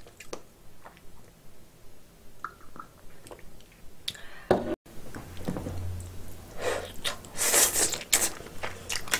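Close-miked eating sounds: a few soft mouth clicks at first, then, after a brief dropout, louder noisy chewing of snow crab leg meat in the second half.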